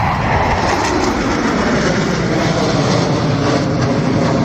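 Jet aircraft passing overhead, a loud, steady engine roar.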